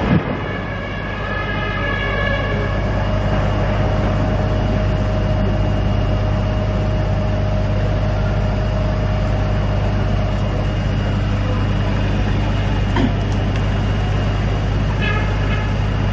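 Steady low rumble of fire engines running at a fire scene, with a few steady higher tones over it and a short run of repeated tones near the end.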